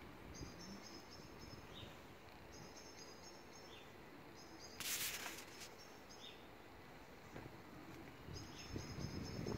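A small bird chirping short high phrases over and over, about every two seconds, with single short falling chirps in between. A brief rustle about five seconds in is the loudest sound.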